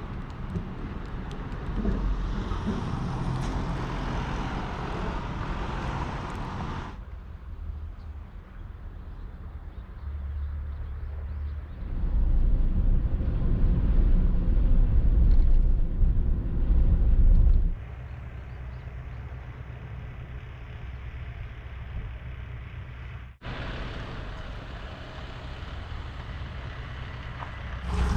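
Steady motor-vehicle road noise, heavy in the low end, in several stretches that change abruptly, loudest for a few seconds in the middle.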